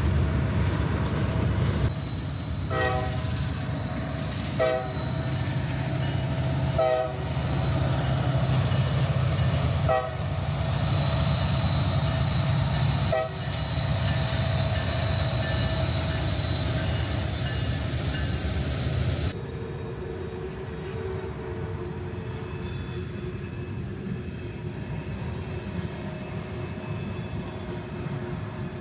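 Diesel locomotives of a Norfolk Southern freight train running past, with a heavy engine rumble and short ringing tones every two to three seconds. About two-thirds of the way through, the sound gives way to the freight cars rolling by, with a steady squeal from the wheels on the tight curve.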